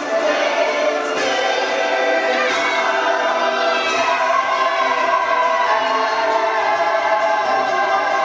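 Music with a choir singing, steady and continuous.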